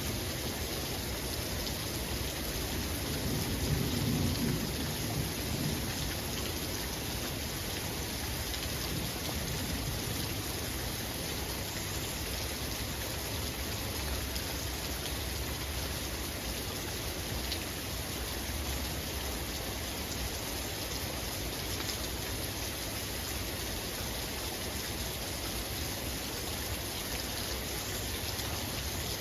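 Heavy rain falling steadily, with a low rumble of thunder swelling about three to six seconds in.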